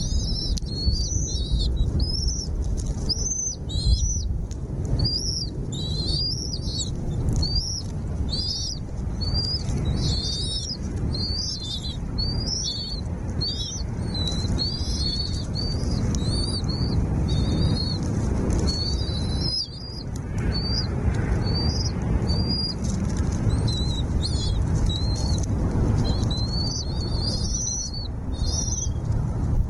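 Small birds chirping: a fast, unbroken run of short, high-pitched calls over a steady low rumble.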